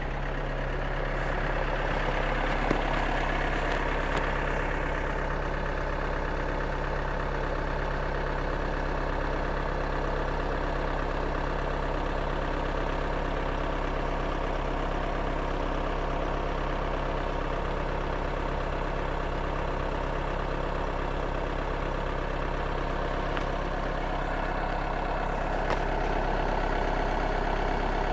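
VW Sharan 2.0 diesel engine idling steadily after a cold start at −4 °C, the engine still cold.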